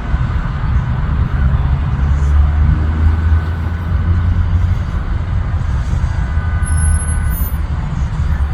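Jet aircraft engines running: a loud, steady low rumble with a faint high whine, swelling in the middle and easing a little toward the end.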